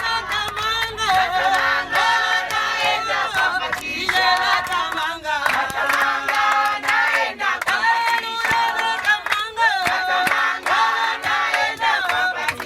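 A group of voices singing together in chorus, with hand clapping throughout.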